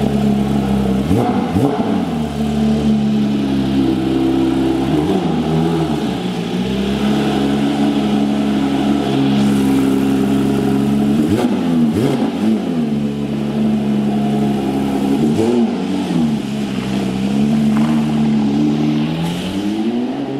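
Porsche 911's 4.0-litre flat-six engine running at idle just after starting, blipped into short revs about seven times and dropping back to idle after each.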